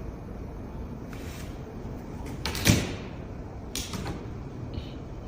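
Two sharp knocks over a steady background hiss: a loud one about halfway through and a weaker one about a second later.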